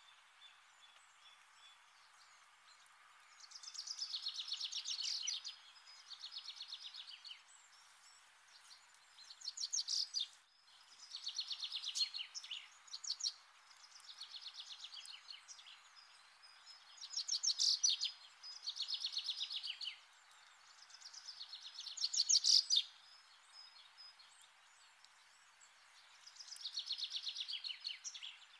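A bird singing a series of rapid trills, each phrase a second or two long and repeated every couple of seconds, over a faint steady hiss.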